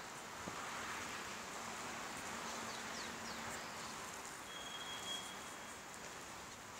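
Steady background hiss with a few faint, short bird chirps about three seconds in and a brief thin whistled note about a second later.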